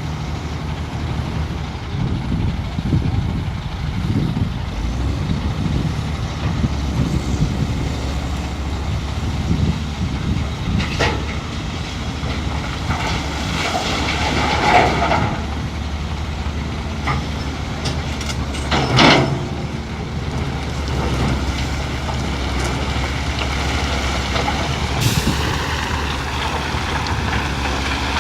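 Heavy diesel earthmoving machinery, a Hitachi EX450LC-5 hydraulic excavator working beside a loaded dump truck, running steadily with a deep drone. A few short, loud sudden sounds break in around the middle, the strongest about two-thirds of the way through.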